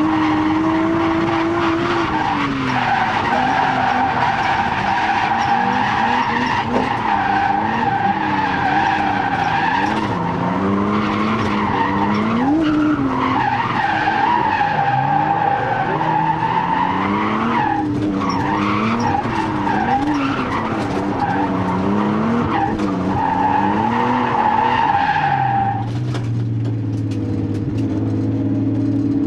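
Nissan Skyline R32's turbocharged RB20DET straight-six, run with its compression down to single figures, revving up and down repeatedly while drifting, with sustained tyre squeal over it. Near the end the squeal stops and the engine settles to a steady lower note.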